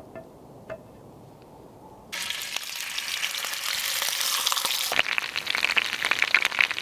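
Fire burning in a drilled Finnish torch log, crackling and hissing loudly. It starts suddenly about two seconds in after faint clicks, and turns sharper and more crackly near the end.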